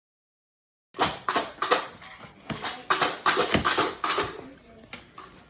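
A quick, irregular run of sharp clicks and knocks, starting suddenly about a second in and dying away to a faint rustle near the end.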